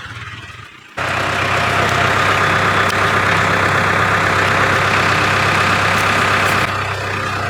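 A heavy engine running steadily, cutting in abruptly about a second in and dropping somewhat in level near the end.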